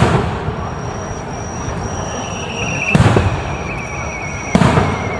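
Aerial fireworks shells bursting overhead: three loud booms, one at the start, one about three seconds in and one about four and a half seconds in, each trailing off in a rolling echo over a steady low rumble.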